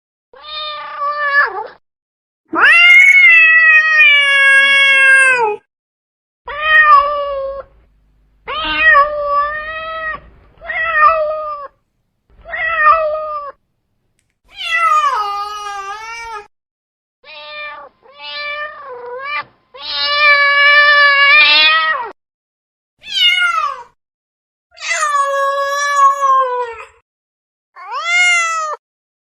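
Domestic cat meowing over and over: a string of a dozen or so separate meows with short silent gaps, most brief, a few long and drawn out.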